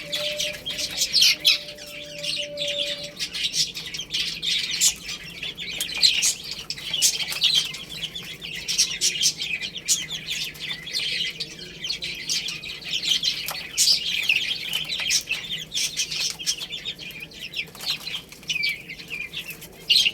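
A group of baby chicks peeping continuously, many short high-pitched chirps overlapping.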